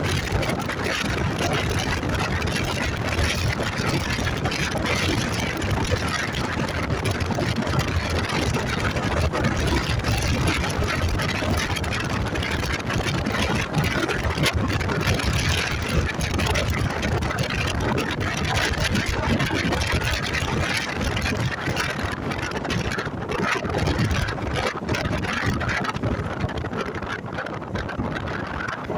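Motorcycle being ridden: steady wind rush over the microphone mixed with engine and road noise, easing slightly near the end.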